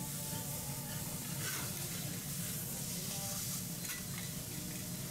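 Food sizzling on a hot teppanyaki iron griddle, a steady frying hiss with a couple of light spatula clicks.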